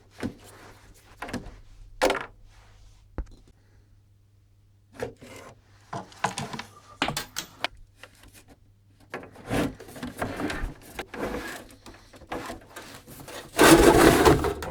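Hands and tools working on a Tektronix 475 oscilloscope being opened up: scattered clicks, knocks and scrapes, with a loud rubbing scrape about a second before the end.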